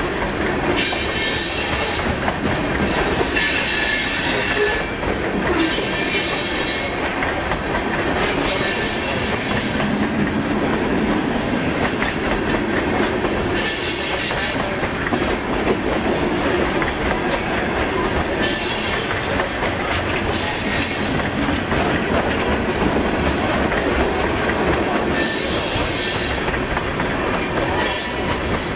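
Freight cars of a passing train rolling over the rails: a steady loud rumble with clickety-clack of wheels over rail joints. Bouts of high-pitched wheel squeal come and go every few seconds.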